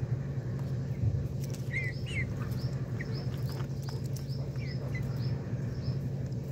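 Small birds chirping: a couple of short chirps, then a run of quick, high, falling chirps about three a second, over a steady low hum.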